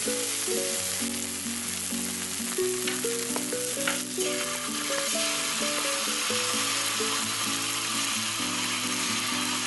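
Chopped long green onion and star anise sizzling steadily in hot oil in a wok, with background music.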